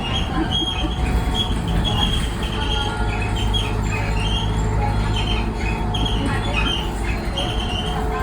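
Bus body parts squealing in many short, high-pitched, irregular squeaks over the steady low rumble of the moving bus: abnormal noises from the bus's body fittings that sound like dinosaur calls.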